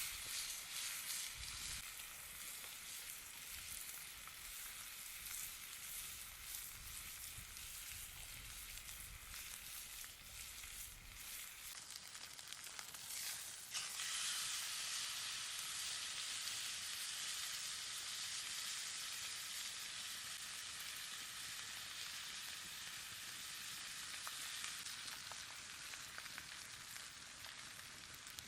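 Butter and a bone-in ribeye steak sizzling in a hot pan, with fine crackling pops. About 14 s in, the sizzle suddenly grows louder and fuller and holds steady.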